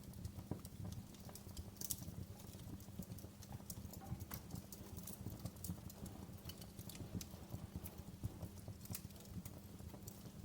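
Wood fire crackling in a fireplace: a steady low rumble of burning under frequent sharp pops and snaps, the loudest pop about two seconds in.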